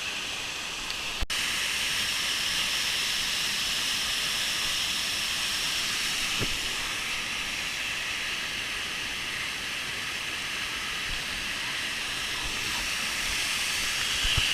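Waterfall rushing: a steady hiss of falling water, with a brief break in the sound about a second in.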